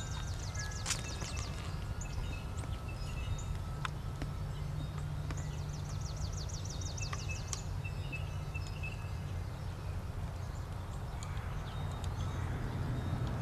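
A small bird's rapid trill of high, falling notes, heard twice, over a steady low rumble, with a few sharp clicks.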